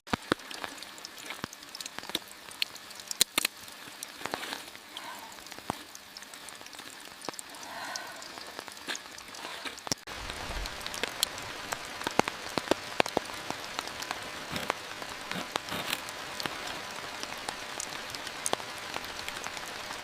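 Steady rain with many sharp individual drops tapping on a surface. It turns a little heavier after an abrupt change about halfway through.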